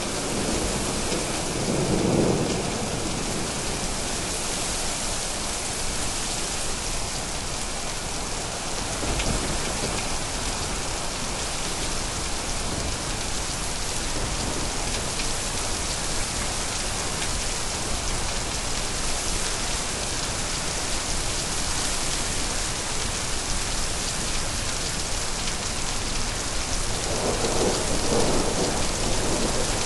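Steady rain falling throughout, with low rumbles of thunder rolling in about two seconds in and again near the end.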